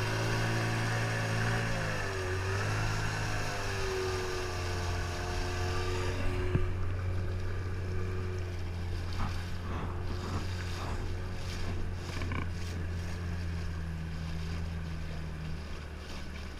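15 hp outboard motor running, its pitch wavering, then throttled back about six seconds in and running on more quietly at lower revs.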